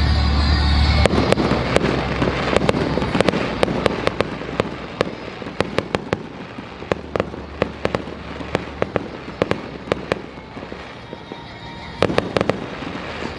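Fireworks crackling overhead: dozens of sharp, irregular pops from crackling stars, thinning out as the display fades, then a quick cluster of pops near the end. A low rumble stops about a second in.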